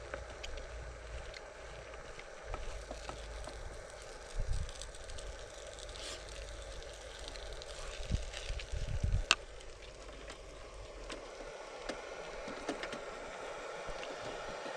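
Wind buffeting the microphone over a steady hiss, with low gusts about four and a half seconds in and again around eight to nine seconds, and a single sharp click just after nine seconds.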